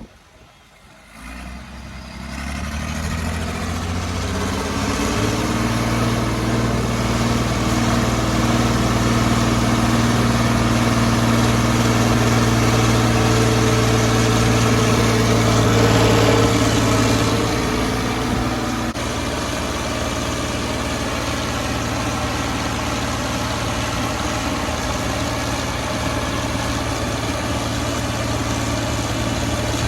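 Massey Ferguson 2725 tractor engine running on a PTO dynamometer: it comes up in speed and loudness over the first few seconds and holds a steady, even note. About 18 seconds in the note changes and the level drops a little, and it runs on steadily.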